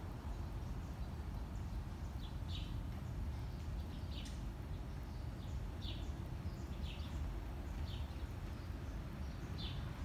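A bird giving short, falling chirps, six of them roughly a second apart, starting a couple of seconds in, over a steady low rumble.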